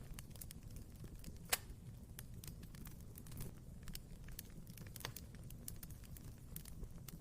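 Wood fire burning in a fireplace, a low steady rumble of flames with scattered sharp crackles and pops, one pop much louder about one and a half seconds in.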